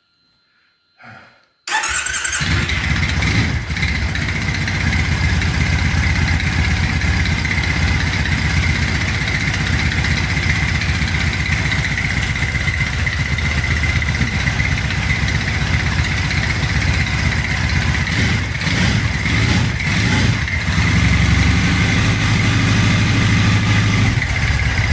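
A 2010 Triumph Bonneville's parallel-twin engine starts up about two seconds in and then idles steadily, run briefly after an oil change to circulate the fresh oil before the level is rechecked.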